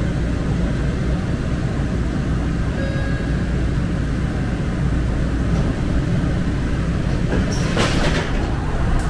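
Muni Metro light-rail train running, heard from inside the car: a steady low rumble, with a brief hiss near the end.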